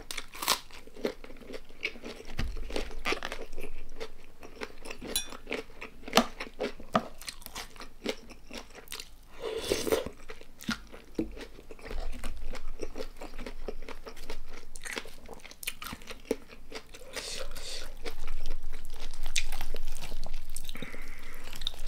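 Close-miked chewing and crunching of food: many small crunches and mouth clicks, denser and louder for the last few seconds.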